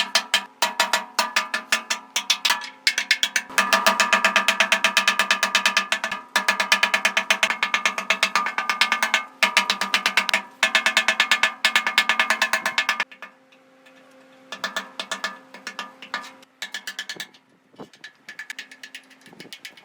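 Rapid metallic hammering of a power tool working on metal, in runs of a few seconds over a steady hum, slowing to short scattered bursts after about 13 seconds in.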